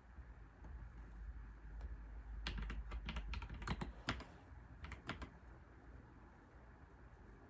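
Computer keyboard typing: a quick run of keystrokes starting about two and a half seconds in and lasting about three seconds, then a pause.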